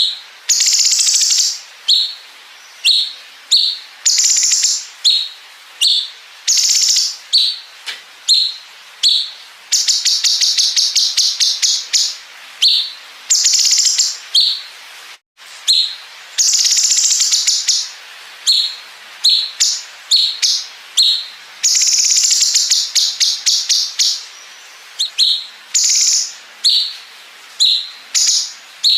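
Cucak cungkok singing a loud, high song of short chirped phrases about once a second. These are broken up by several longer, rapid buzzing trills that copy a bren cicada.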